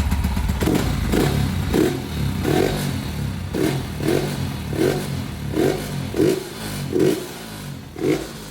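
Yamaha Y15ZR's single-cylinder four-stroke engine through a Hypertech aftermarket exhaust, idling and then blipped by the throttle over and over: a short rev about every three-quarters of a second, falling back between blips.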